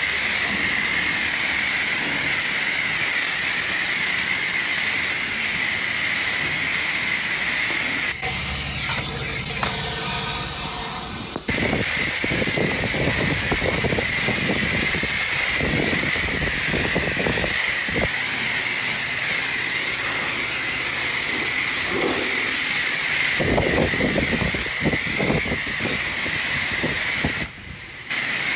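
High-pressure car-wash wand spraying water in a steady hiss, dropping out briefly about eleven seconds in and again near the end.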